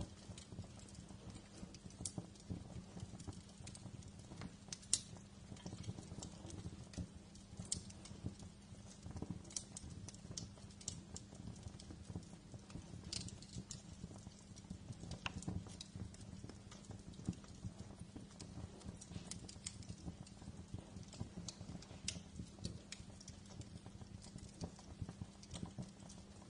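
Wood fire in a fireplace crackling, with irregular sharp pops and snaps over a low steady rumble from the burning logs. A few louder pops stand out, around five seconds in and near the middle.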